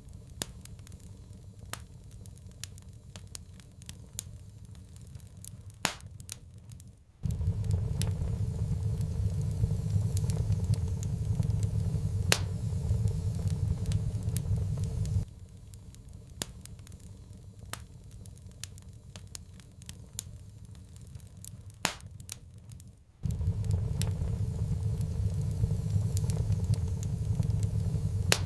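Wood fire in a fireplace crackling, with scattered sharp pops and snaps. A low rumble of the burning fire cuts in suddenly about a quarter of the way in, drops out abruptly around halfway, and returns near the end.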